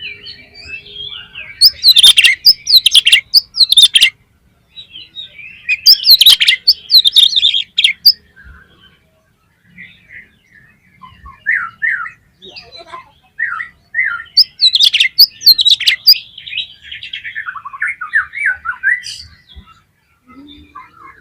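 Oriental magpie-robin (kacer) singing in loud bouts of rapid, varied phrases mixed with harsh scratchy notes: three loud outbursts, with quieter short phrases in between.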